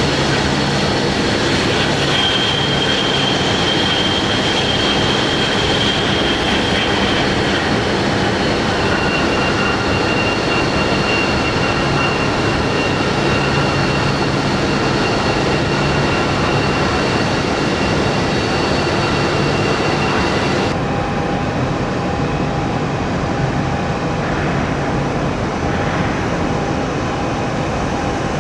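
Jet airliner engines running steadily: a loud rushing with high whining tones. About 21 seconds in, the sound changes abruptly, losing its highest part, and carries on a little quieter.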